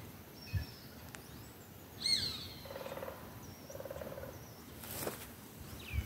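Wild birds calling in the scrub: scattered short high chirps, the loudest a quick falling chirp about two seconds in, with two short low buzzing hums near the middle.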